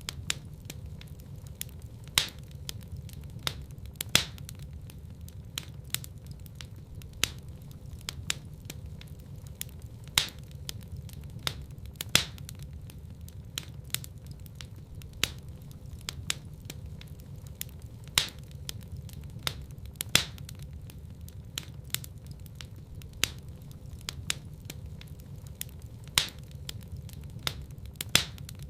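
Fireplace fire crackling, with sharp snaps and pops every second or two over a steady low rumble of the flames.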